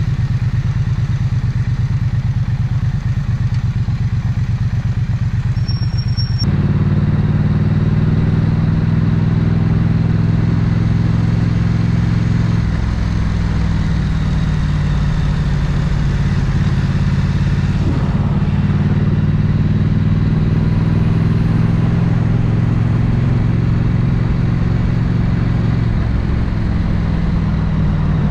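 Triumph Bonneville 900cc parallel-twin motorcycle engine heard from the saddle: a low, pulsing beat at low revs, then about six seconds in it gets louder as the bike pulls away and runs under load, its note stepping a few times as the revs change.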